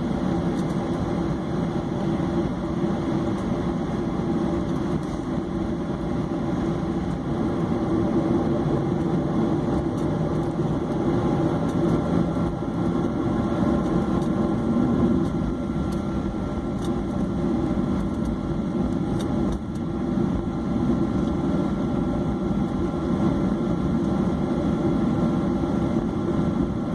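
Boeing 737-800's CFM56-7B jet engines running steadily at a constant level, with no build-up of power.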